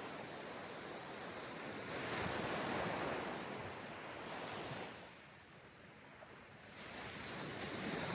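Sea waves washing onto a beach: the surf swells about two seconds in, recedes into a quieter lull, then builds again with the next wave near the end.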